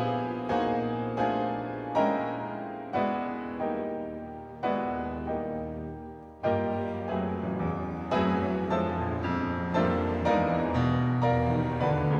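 Symphony orchestra playing film-suite music: chords struck one after another, each with a sharp attack that dies away. They come a second or two apart at first, then about twice a second in the second half, growing a little louder near the end.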